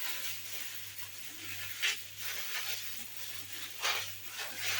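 Kitchen handling sounds: two short scraping or rustling strokes, about two and four seconds in, over a faint hiss and a steady low hum.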